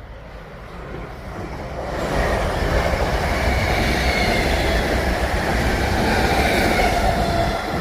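Class 325 electric Royal Mail train passing. The wheel-and-rail rush grows louder over the first two seconds, then holds loud, with a faint electric whine that falls slightly in pitch before it eases off near the end.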